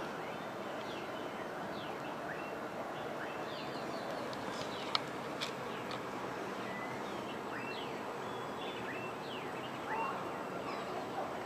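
Several wild birds chirping with many short, quick calls over a steady background hiss, with one sharp click about five seconds in.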